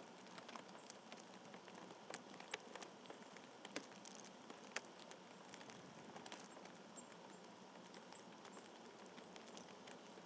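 Faint scattered clicks and light taps of birds and small critters pecking and picking at seed, with a few louder taps between two and five seconds in and a few faint, short, high bird chirps.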